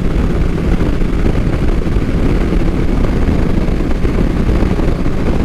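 Motorcycle cruising at highway speed: a steady, unbroken rush of wind over the microphone mixed with the engine's drone.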